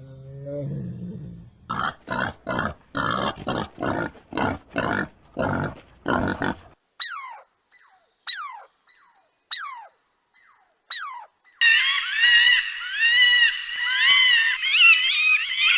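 A sequence of different animal calls. First a short low call, then about a dozen rhythmic noisy calls at roughly two a second, then four sharp calls that fall steeply in pitch, and over the last four seconds a continuous warbling birdsong.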